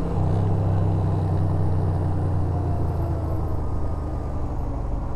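Yamaha SRV250 motorcycle's V-twin engine running steadily at low revs, a low even drone with a slight change in pitch just after the start.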